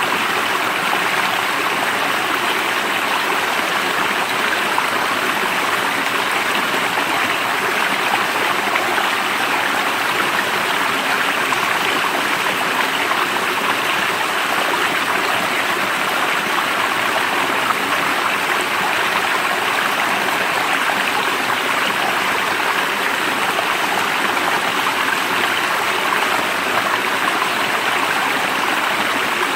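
Running water of a stream, an even, unbroken hiss.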